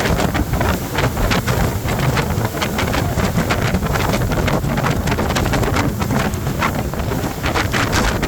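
Heavy wind buffeting the microphone aboard a speedboat under way, over the low rumble of the boat and rushing water.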